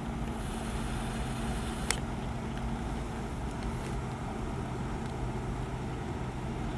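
Diesel engine of heavy road-building machinery running steadily at a constant note, with one sharp click about two seconds in.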